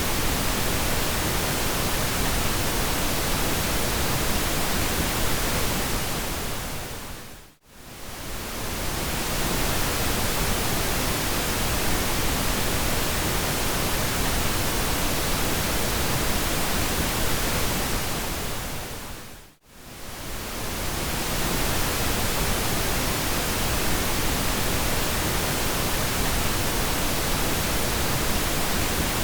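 Continuous pink noise: an even, steady hiss. Twice, about twelve seconds apart, it fades briefly to near silence and swells back.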